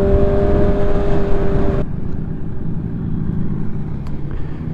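Motorcycle engine running at high revs with a steady, slightly rising whine that cuts off abruptly about two seconds in, leaving a low engine rumble.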